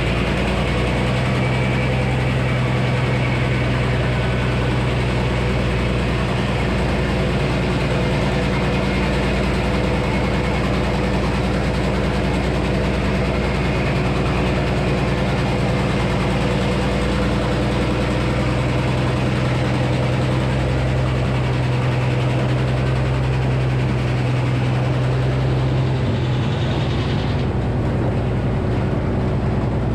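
Frick sawmill with its 48-inch circular saw running steadily under power, a low, even hum under a broad whirring noise. The sound shifts slightly about 27 seconds in.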